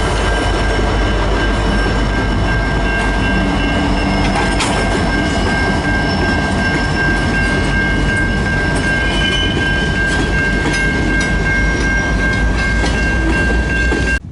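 Train passing close by, wheels clicking over the rail joints, with a steady high-pitched wheel squeal held throughout. The sound cuts off suddenly at the end.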